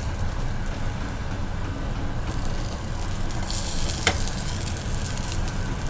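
Vegetable cutlets sizzling as they are laid into a little hot oil in a non-stick frying pan. The sizzle grows brighter for about two seconds past the middle, with one small click.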